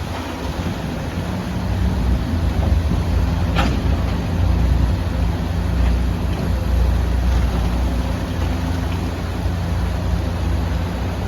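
Excavator's diesel engine running steadily, with one sharp knock about three and a half seconds in.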